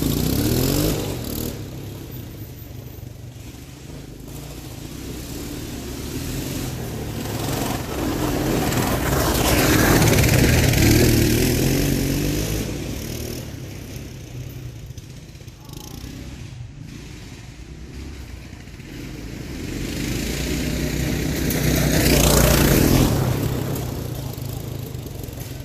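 Small engines of a mini bike and a three-wheeler racing, revved hard off the start. They fade into the distance and come close twice, about ten seconds in and again near the end, swelling loud with the engine pitch rising and falling as they pass.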